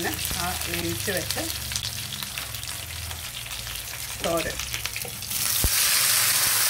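Mustard seeds and curry leaves crackling and sizzling in hot coconut oil. About five seconds in, the wet cooked banana peel, prawn and coconut mixture is tipped into the pan, with a light knock, and the sound turns to a louder, steady sizzle.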